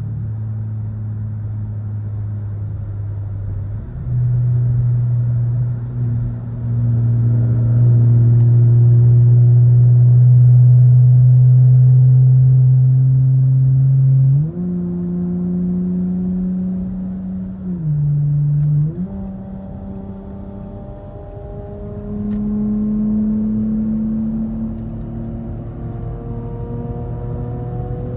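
Car engine and exhaust while driving. The engine note holds steady, steps up and down in pitch a few times, then rises gradually over the last several seconds as the car speeds up.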